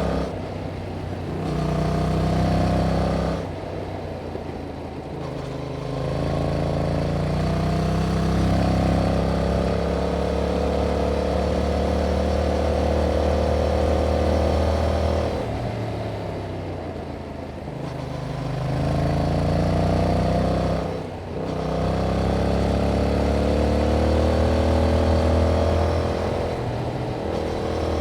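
Yamaha MT-07's parallel-twin engine through its stock exhaust, pulling under throttle with its pitch climbing slowly through long stretches, then falling away several times as the throttle is eased off. A brief sharp dip about three-quarters through suggests a gear change.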